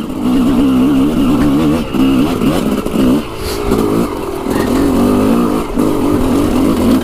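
Dirt bike engine rising and falling in pitch as the throttle is worked on a trail ride, easing off briefly several times.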